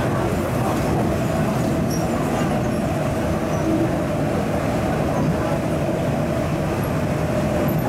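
MTR East Rail Line MLR (Metro-Cammell) electric multiple unit running steadily: an even rumble of wheels and running gear with a faint steady whine.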